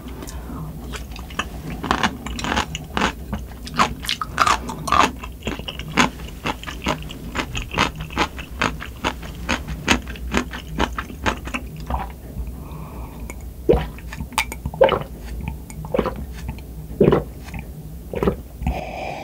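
Close-mic chewing of crunchy kkakdugi (cubed radish kimchi), with crisp crunches several times a second for about twelve seconds. It then thins to a few separate mouth sounds and gulps as a drink is sipped from a mug near the end, over a steady low hum.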